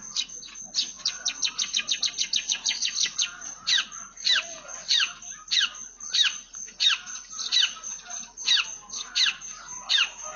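Long-tailed shrike singing with mimicked Eurasian tree sparrow calls: a fast run of short chirps, then from about four seconds in a series of clear notes sliding down in pitch, roughly one and a half a second.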